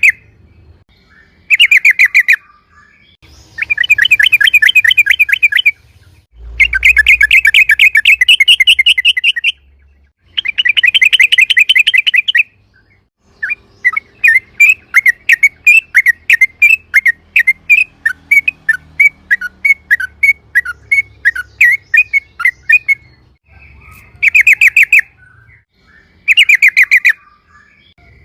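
Yellow-vented bulbul (trucukan) singing loudly in rolling bursts of rapid bubbly notes, each burst lasting a second or two. Through the middle of the song it switches to a longer run of quick separate chirps, about four a second, then returns to short trilled bursts near the end.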